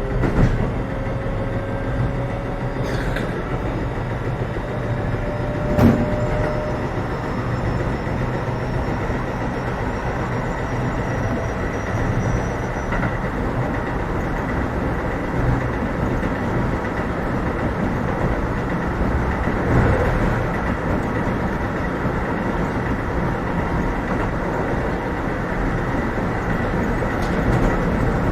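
Running sound heard inside a Keio 7000 series electric train car: a steady rumble of wheels on rails, with a faint motor whine rising slowly in pitch over the first ten seconds or so and a few sharp knocks from the track.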